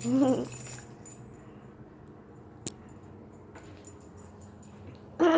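A dog whining twice: a short call at the start and a louder one near the end that falls in pitch. A single faint click comes between them.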